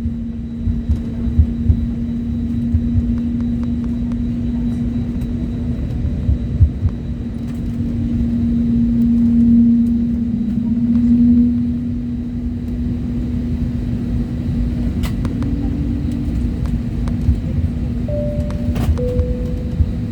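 Cabin of an Airbus A320neo with its Pratt & Whitney PW1100G geared turbofans: a steady low rumble with a constant engine hum. Near the end a two-note cabin chime sounds, high then low.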